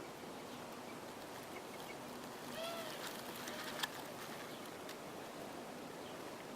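A single short bird call that rises and falls in pitch, about two and a half seconds in, over steady outdoor hiss, with a sharp click about a second later.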